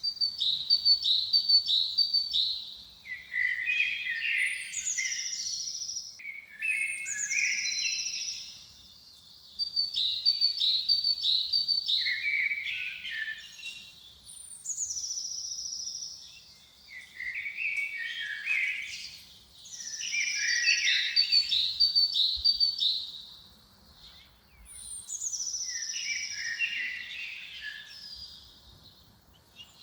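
A songbird singing the same phrase over and over, about every six seconds: a high falling whistle, then a quick run of chirps and lower warbling notes, with short pauses between phrases.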